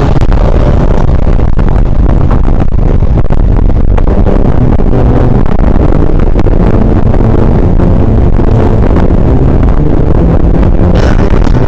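Loud, steady wind and road rumble on a body-worn camera's microphone while riding an e-bike, with no pauses.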